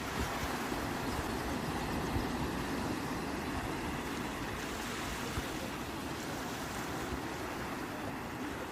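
Sea waves washing in: a continuous rush of surf that swells a little about two seconds in and eases slightly near the end.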